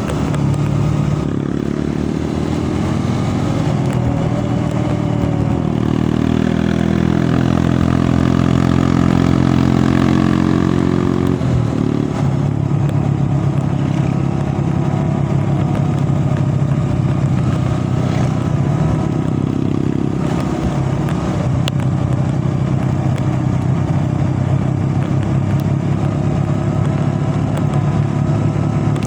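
Vehicle engine running while under way on the road. Its pitch climbs for several seconds, drops suddenly about eleven seconds in, as at a gear change, then holds steady.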